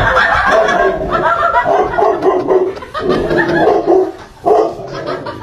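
A dog barking, with people laughing over it.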